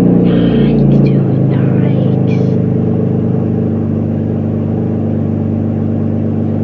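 Car engine just after start-up, its revs coming down in the first second or so and then settling into a steady idle.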